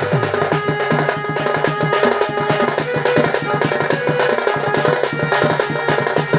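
Danda folk-dance accompaniment: fast, even drumming on dhol-type drums, with a held melody line sounding over the beat.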